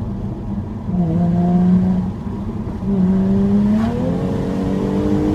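Jaguar F-Type V6 S's 3.0-litre supercharged V6 engine and exhaust pulling hard in fourth gear, heard from inside the cabin. The engine note climbs in pitch, eases off briefly about two seconds in, then pulls again with a step up in pitch about four seconds in.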